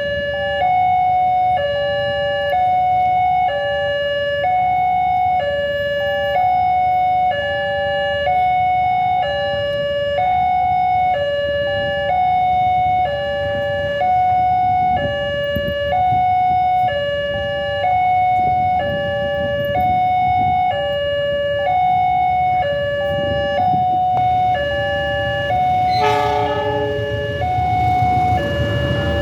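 Railroad level-crossing warning alarm sounding its two-tone ding-dong, alternating evenly between a higher and a lower tone about once a second. A low rumble runs underneath, and a short horn sounds near the end.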